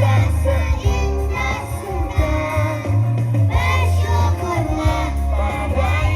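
Children's choir singing a song over a musical accompaniment with a heavy bass line.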